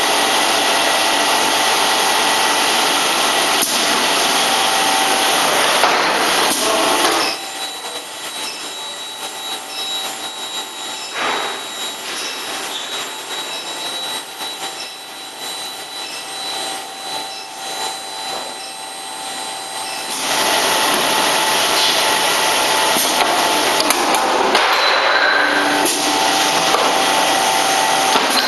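Induction heating machine running, a loud steady hiss with several steady high tones. About seven seconds in it drops to a quieter, uneven hum with a thin high whine, then comes back loud near the twenty-second mark.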